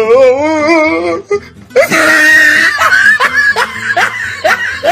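A quick run of comedy sound-effect clips: a wavering, vibrato wail for about a second, then a loud harsh shriek about two seconds in, then a string of short rising yelps, about three a second.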